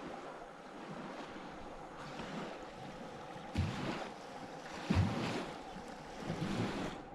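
Small waves lapping on a lakeshore, with wind buffeting the microphone and a few soft low thumps.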